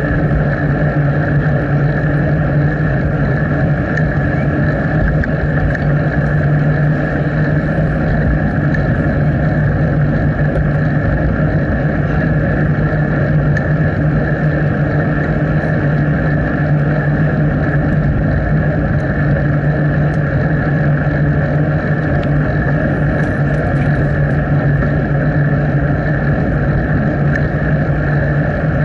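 Steady wind and riding rumble on the microphone of a bicycle-mounted action camera while cycling, loud and unchanging throughout.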